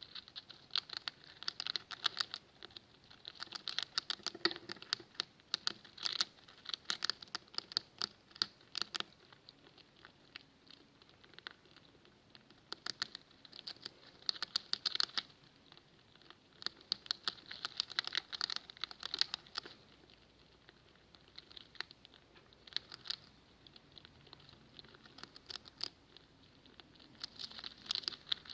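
Pet rats making a crackling sound like a fire: dense runs of quick clicks and scratches, in bursts a few seconds long with short pauses between them.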